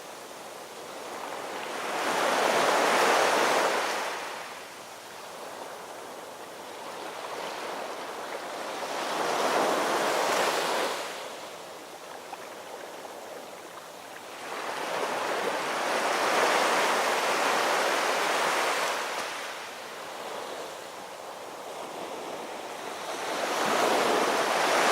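Ocean waves washing in, four surges of rushing water that each build and fade over a few seconds.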